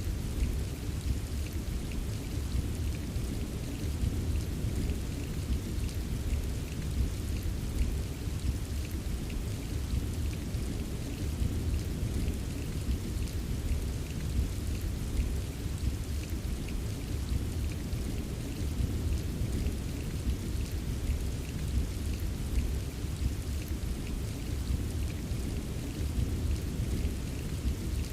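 Steady rain ambience: an even hiss of rainfall over a deep low rumble, with scattered small drop ticks, unchanging throughout.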